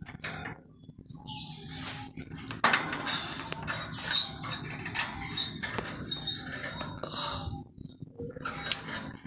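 Scratchy rustling and light taps, irregular and in short bursts, as live crickets are handed to a caged yellow-vented bulbul (trucukan).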